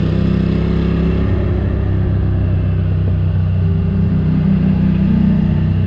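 Ducati Monster 620's air-cooled V-twin engine running under way, heard from the rider's position. Its note drops about a second in and climbs again in the second half.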